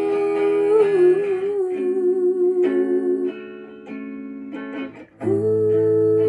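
Wordless humming in long held notes over plucked acoustic guitar. About five seconds in it briefly drops away, then a new long held note begins.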